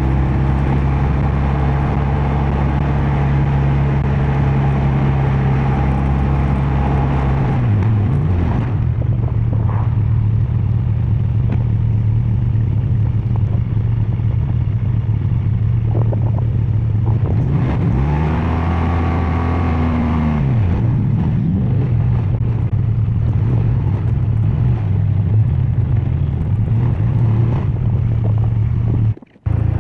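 BMW R12 nineT's air/oil-cooled boxer twin running under way at a steady engine note. About eight seconds in the revs dip and settle at a new note, and around eighteen to twenty seconds in they rise and fall back again. Near the end the sound cuts out for a moment.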